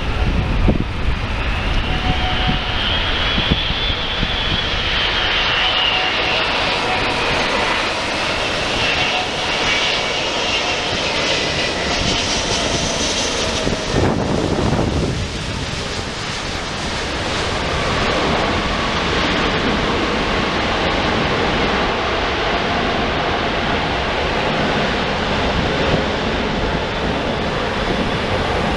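Wide-body jet airliner's engines as it passes low on landing: a loud, continuous jet roar with an engine whine that falls in pitch over the first dozen seconds.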